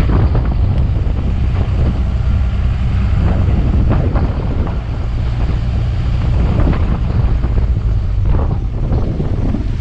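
Strong leftover hurricane wind buffeting the microphone: a loud, continuous low rumble with an uneven hiss and several stronger gusts.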